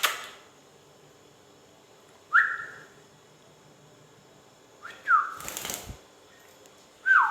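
A ringneck parrot gives short whistled notes about every two and a half seconds, four in all, most of them sliding down in pitch. A brief rustle comes just after the third note.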